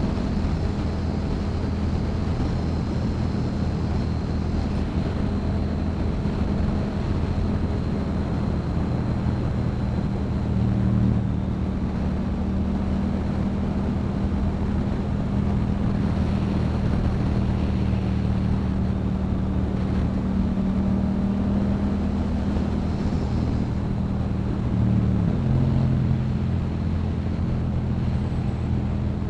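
Yamaha MT-07's parallel-twin engine through a Yoshimura exhaust, running steadily while cruising. The engine note briefly swells about a third of the way in and shifts again near the end.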